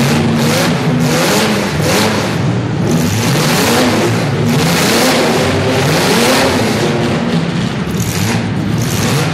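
Several compact demolition-derby cars' engines revving hard at once, their pitches repeatedly rising and falling over one another, with a steady haze of noise underneath.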